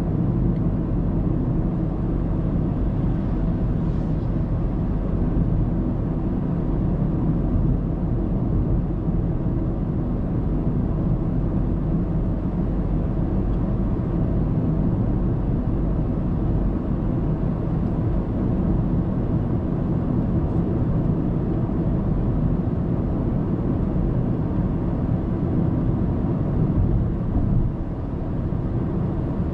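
Car cruising on an expressway, heard from inside the cabin by a dashcam: a steady low rumble of road and engine noise that dips slightly near the end.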